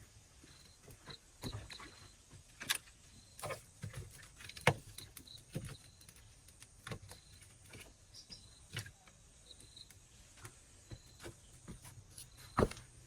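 Irregular sharp clicks and knocks, the loudest about four and a half seconds in and another near the end, over faint short high chirps repeated every second or so.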